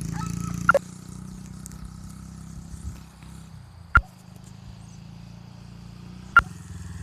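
Small dirt bike engine running steadily, louder for about the first second and then fainter as it rides off. Three sharp clicks stand out, about a second, four seconds and six and a half seconds in.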